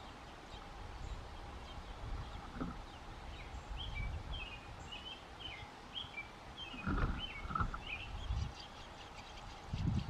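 A bird chirping: a quick run of short, high notes for several seconds in the middle, over a faint steady hum. A few dull low thumps about seven seconds in and again at the very end are the loudest sounds.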